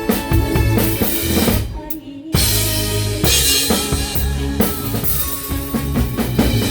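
A live band playing a song with a drum kit to the fore, bass drum and snare keeping a steady beat. About two seconds in the band stops for a moment, then comes back in all together on a hit.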